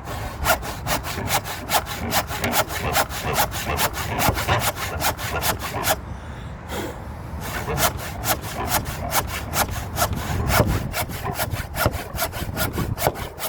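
Hand saw cutting timber in steady back-and-forth strokes, about three a second, with a short pause about halfway through.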